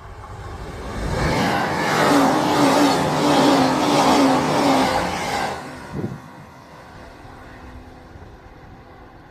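An electric train passing at speed: it builds up over about a second, its wheels clatter over the rail joints in a rapid regular rhythm for about four seconds, then it fades. A short sharp clank comes about six seconds in.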